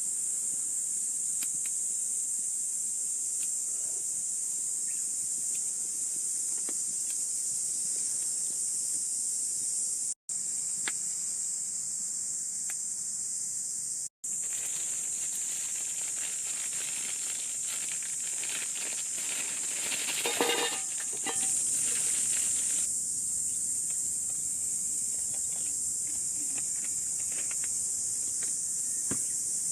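Steady, high-pitched chorus of crickets or similar insects, with scattered crackling clicks that grow denser in the middle. The sound drops out sharply twice, a few seconds apart.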